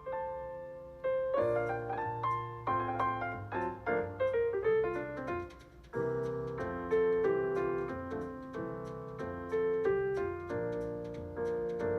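Background music: a piano playing a gentle melody over chords, each note struck and fading away.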